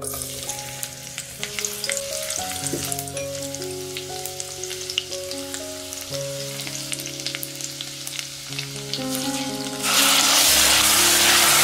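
Hot oil sizzling and crackling in a pot as chopped aromatics fry and are stirred with a silicone spatula. About ten seconds in, minced meat drops into the oil and the sizzle jumps to a much louder, dense hiss. Background music plays underneath.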